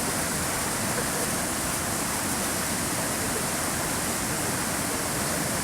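Fast river water rushing steadily, a continuous hiss of whitewater.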